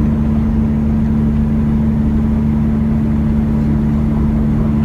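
Semi truck's diesel engine running at a steady cruising speed, heard from inside the cab as a low, even drone over road rumble.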